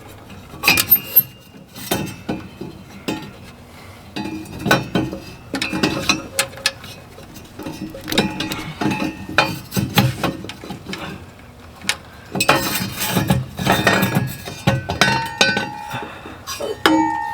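Irregular metallic clinks and clicks of a wrench, nuts and washers as four nuts are worked off a diesel hydronic heater's housing, some hits leaving a short metallic ring.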